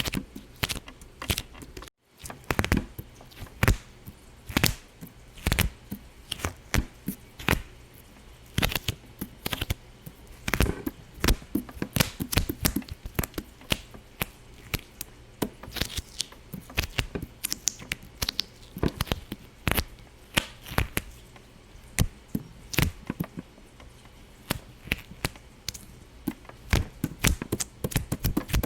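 Irregular series of sharp little pops and clicks, a few a second, with a brief gap about two seconds in.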